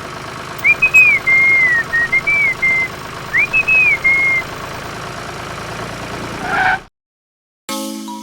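A person whistling a short, gliding tune over a steady engine idling. Near the end everything cuts off, and after a brief silence music with chiming notes begins.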